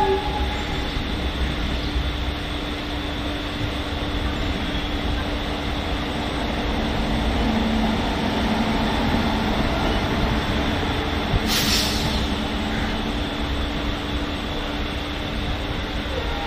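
Electric suburban local train running on the rails: a steady rumble of wheels on track with a steady low hum and a high whine. A short hiss comes about eleven and a half seconds in.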